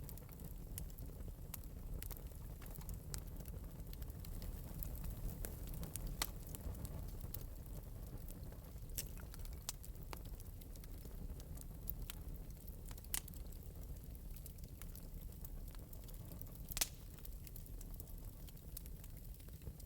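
Fire crackling in an open metal fireplace: scattered sharp pops over a low steady rumble, with the loudest pop near the end.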